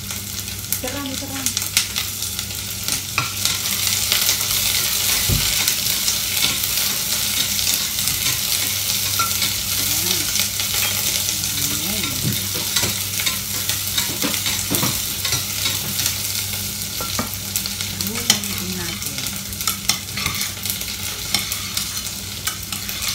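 Onion and ginger sizzling in hot oil in a stainless steel pot on a gas hob. A metal spatula stirs them, with frequent clicks and scrapes against the pot. A low steady hum runs underneath.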